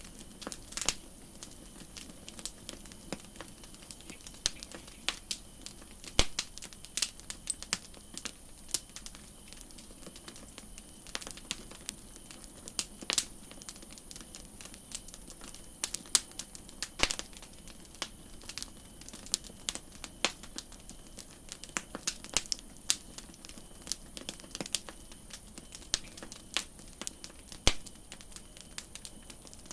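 Campfire crackling: irregular snaps and pops, several a second, some much sharper than others, over a faint steady background.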